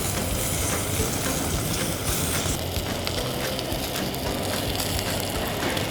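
Pork belly searing in hot oil in a pan, sizzling steadily with small pops and spits, over a low steady hum.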